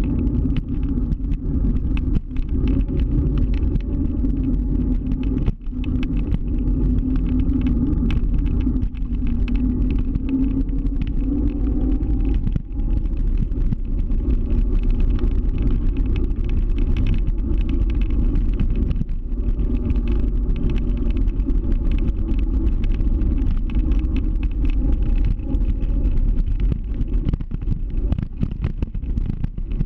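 Steady low rumble of a scooter ride, its wheels running over pavement, with frequent small knocks from bumps. A faint whine rises briefly twice, around the middle and again near the end.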